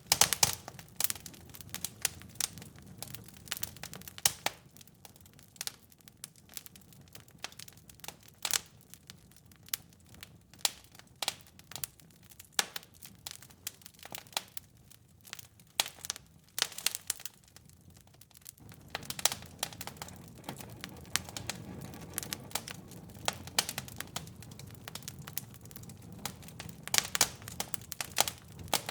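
Wood fire crackling and popping in a fireplace: irregular sharp snaps over a low steady rush of flame, the rush a little fuller from about two-thirds of the way in.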